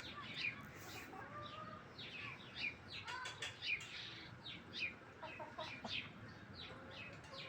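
Birds calling: many short, high chirps that fall in pitch, several a second, with a few lower calls among them.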